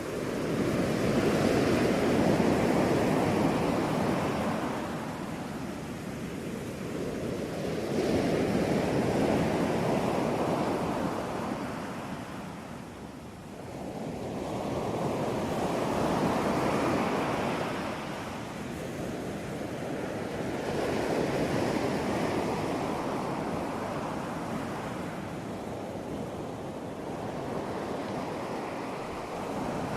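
Ocean surf, waves breaking and washing in, rising and falling in slow surges about every six to seven seconds.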